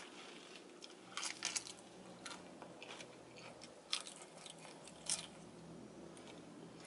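A person chewing a mouthful of lettuce-wrapped burger, with scattered crisp crunches, a cluster a little over a second in and single ones near two, four and five seconds.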